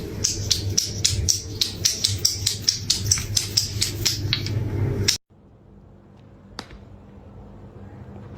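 Rapid, even tapping or clicking, about four a second, over a steady low hum; it cuts off suddenly about five seconds in, leaving a quieter background with a single click near the end.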